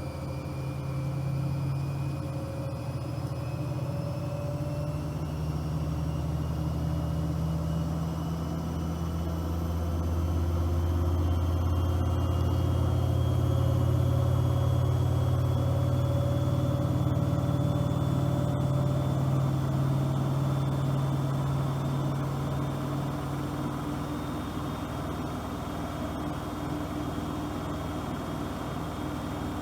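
Bosch AQUASENSOR WFP3231 washing machine running, its motor whine climbing slowly in pitch over a deep hum as the drum speeds up in the spin. The hum swells loudest about halfway through, then eases.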